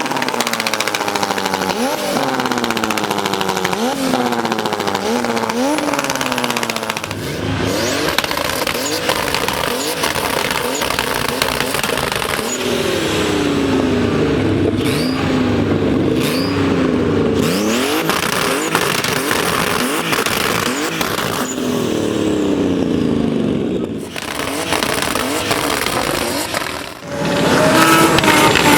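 High-revving car engines and exhausts accelerating hard through several quick gear changes, the pitch climbing and dropping back with each shift, then revs falling as cars slow down. The sound cuts between different recordings a few times.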